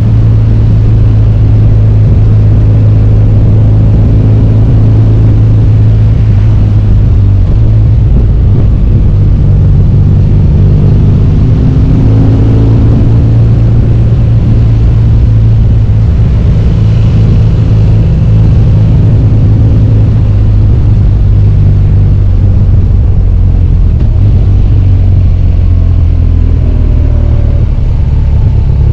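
BMW R1200GS Adventure's flat-twin boxer engine running under way, its note shifting in pitch a few times as the revs change.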